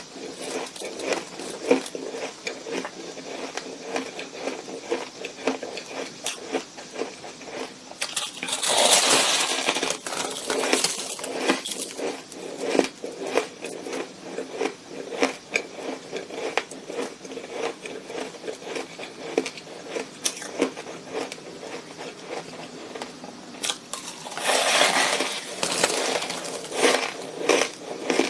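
Close-miked crunching of shaved ice being chewed: a rapid run of crisp crunches throughout, with two denser, louder stretches about eight seconds in and near the end.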